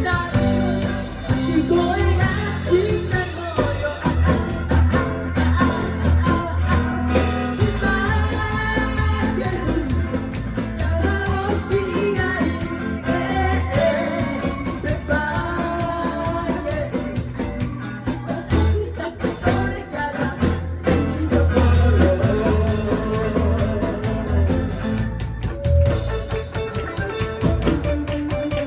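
A rock band playing a song live, a singer over bass, guitar and drums.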